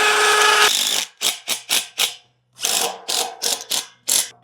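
Hammer drill boring into concrete, running steadily with a whine for about a second, then a string of short rasping bursts, about four a second, with a short pause in the middle.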